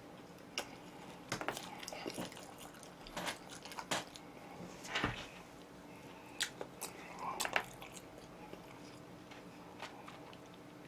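A person biting and chewing oven-roasted chicken close to the microphone: irregular crunches and short mouth clicks.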